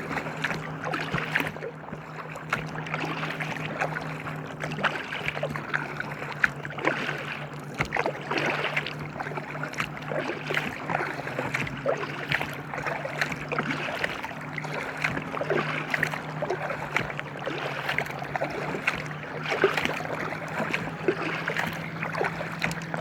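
Water splashing and lapping around an inflatable kayak as it is paddled, in many small irregular splashes, over a steady low hum.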